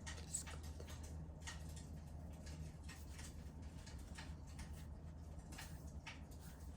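Wood fire crackling in a fireplace: irregular sharp snaps and pops, a few a second, the sharpest about half a second in, over a faint low hum.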